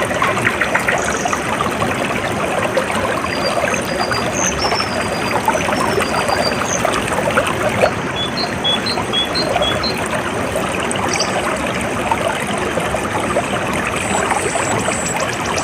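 Stream water trickling steadily, with small birds calling in short high whistles over it; a little past halfway a bird gives a quick run of about five chirps.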